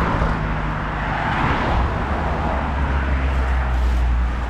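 Traffic passing on a busy highway: steady tyre noise with a low engine hum that grows stronger about a second and a half in.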